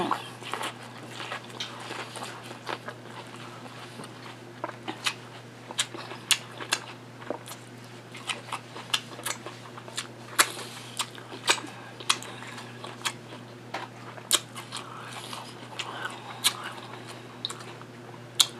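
Close-up chewing and biting of Mexican street corn on the cob, with many sharp, irregular wet mouth clicks and smacks.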